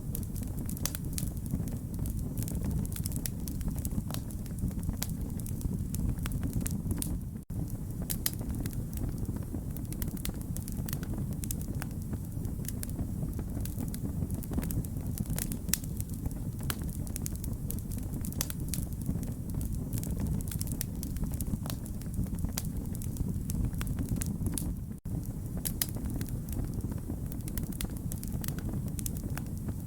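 Wood fire crackling: dense, irregular sharp pops and snaps over a steady low rumble of the flames. The sound briefly drops away twice, about seven seconds in and again near the end.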